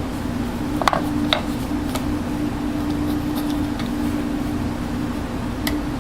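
A steady machine hum with a slight wavering beat over a low rumble, with a few light clicks and taps, twice about a second in and once near the end.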